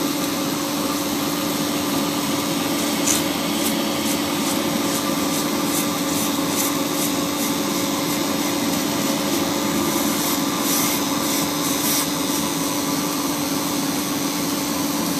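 A polygon pole welding machine running along the seam: a steady machine hum over a constant rushing noise, with scattered light crackles between about 3 and 12 seconds in.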